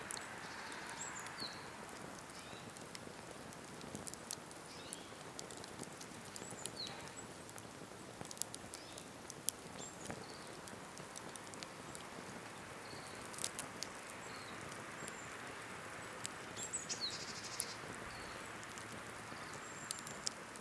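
Cedar firewood campfire crackling, with sharp pops scattered irregularly through it and a soft steady hiss beneath. Small birds chirp briefly and intermittently over it.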